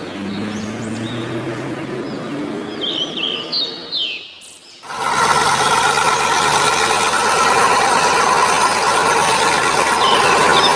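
A steady engine-like drone with bird chirps over it. After a short drop about four and a half seconds in, it gives way to a louder, steady mechanical whirring.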